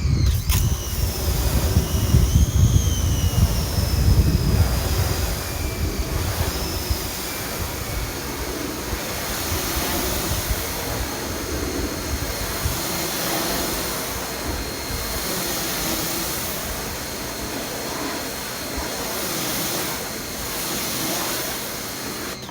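DeWalt 2100 PSI electric pressure washer running with the trigger held: the motor and pump whine under the hiss of the water jet from a 15-degree nozzle. The jet strikes the surface hardest in the first few seconds. The sound cuts off suddenly at the end as the trigger is released and the machine automatically stops.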